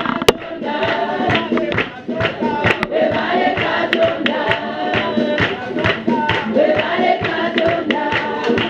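Congregation singing a worship song together, with instrumental accompaniment and a steady beat.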